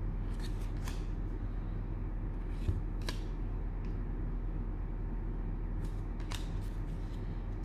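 Trading cards being handled, with a handful of brief rustles and slides of card against card, and a small knock about a third of the way in, over a steady low hum.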